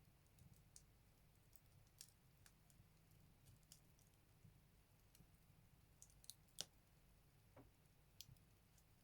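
Firewood burning in a Buleryan wood stove: faint, irregular crackles and pops, the loudest about six and a half seconds in.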